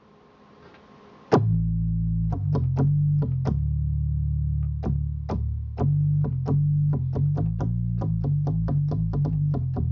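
Omnisphere synth bass patch played on a keyboard: a run of deep sustained bass notes starting about a second in, each key strike giving a sharp click at its attack.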